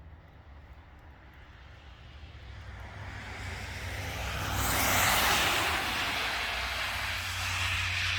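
A vehicle passing by: its noise swells to a peak about five seconds in and then slowly fades, over a steady low hum.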